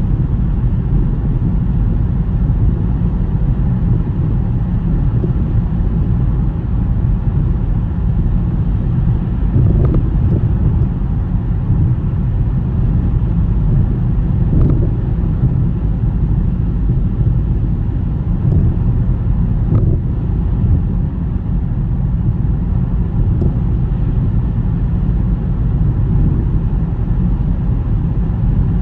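Steady low rumble of a car driving through a snowstorm, road and wind noise, with a few soft bumps.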